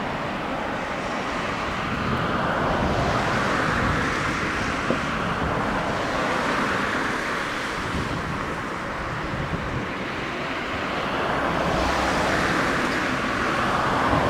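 Jet engines of a Kawasaki XC-2 transport (General Electric CF6 turbofans) on approach, a steady rushing noise with gusty wind on the microphone; it swells and grows brighter near the end.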